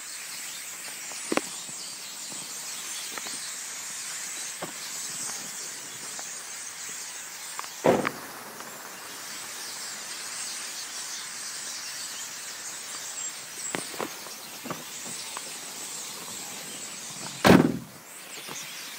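A large flock of birds roosting in a bamboo stand at night, chirping and cheeping together in a continuous high-pitched racket. A few short, sharp, louder sounds stand out, the loudest about eight seconds in and near the end.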